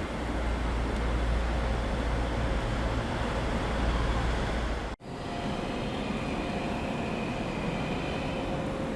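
Trains running in a railway station: a steady deep rumble that cuts out abruptly about halfway through, then a lighter steady hum with a faint whine.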